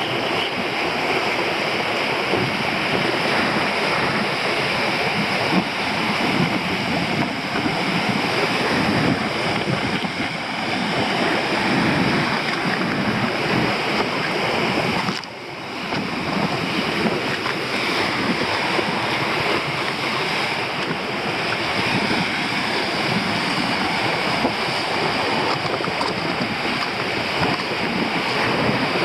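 Storm waves breaking on a rocky shore, with very strong wind buffeting the microphone. The noise is loud and continuous and dips briefly about halfway through.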